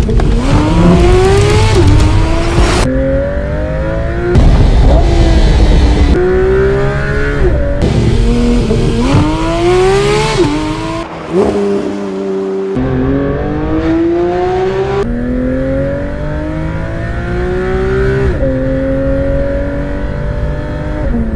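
Porsche 911 GT3 RS's naturally aspirated flat-six accelerating hard through the gears: the engine note climbs steeply, then drops suddenly at each upshift. Several such runs are cut together one after another.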